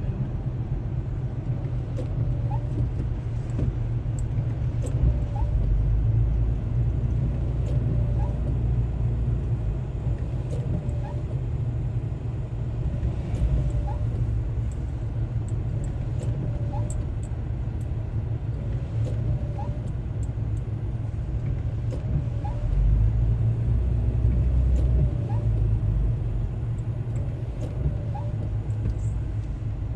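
Car driving, heard from inside the cabin: a steady low road and engine rumble that swells now and then. A faint short sound repeats about every second and a half over it.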